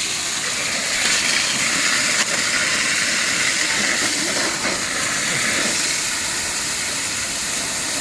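Water jetting out of an opened water pipe with a steady hiss, under strong mains pressure with no pump running.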